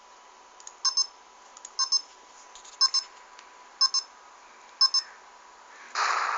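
Five short electronic double beeps, about one a second. Near the end a sudden loud rushing noise starts and carries on.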